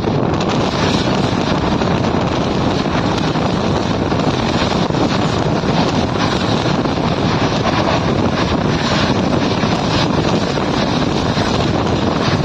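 Steady rushing noise of a train running at speed, with wind buffeting the microphone.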